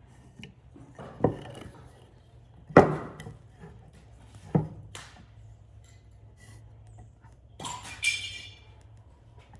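Hard objects knocked and set down: a few separate knocks, the loudest about three seconds in, then near the end a clatter with a brief high ringing.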